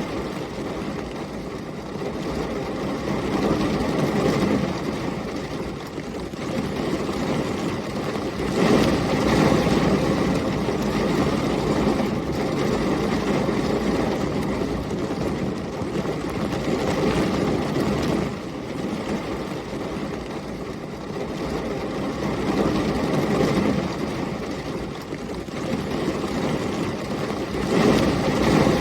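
Heavy rain and storm wind: a steady rushing noise with a low rumble under it, swelling and easing in gusts every few seconds.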